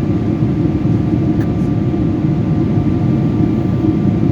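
Steady jet airliner cabin noise: engine and airflow rumble heard from inside the passenger cabin, with a few faint steady tones above it.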